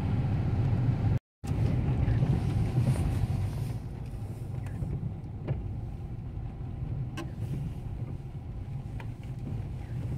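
Car idling, heard from inside the cabin as a steady low rumble. It cuts out completely for a moment about a second in, and a few faint clicks come later.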